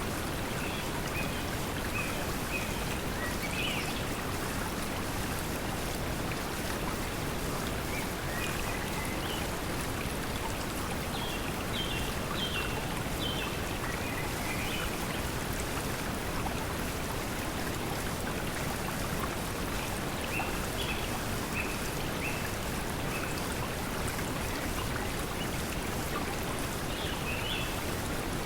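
Steady pink noise mixed with flowing water, with short bird chirps coming and going over it.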